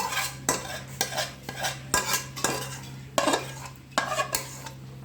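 A metal spoon scraping and clinking against metal dishes in repeated, irregular strokes as biryani is scooped and stirred.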